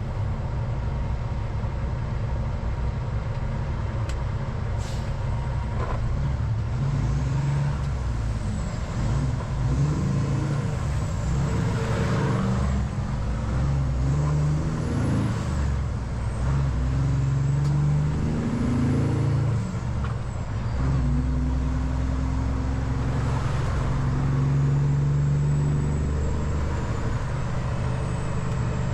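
Peterbilt semi-truck's diesel engine and road noise heard from inside the cab while driving, with the engine note rising and falling every few seconds.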